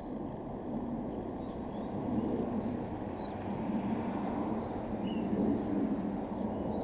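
Steady low rumble with faint, short bird chirps scattered over it.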